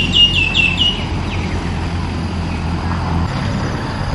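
A bird singing a quick run of short, downward-slurred whistled notes, about six a second, ending about a second in. Under it runs a low steady engine hum that stops about three seconds in.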